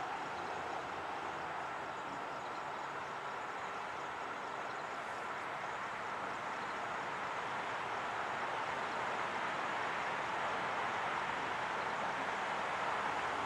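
A freight train moving slowly in the distance: a steady noise of rolling wheels and running engines that grows slightly louder over the last few seconds.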